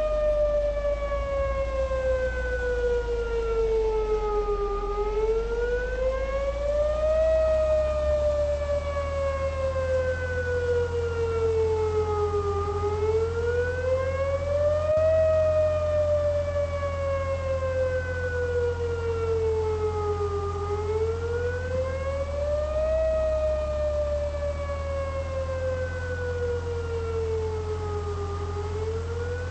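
Outdoor tornado warning siren wailing, its pitch rising quickly and then falling slowly in a cycle of about eight seconds, with a steady low rumble underneath.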